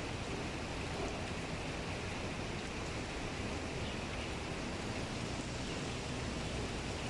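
Heavy rain falling steadily, an even hiss with no distinct drops or events standing out.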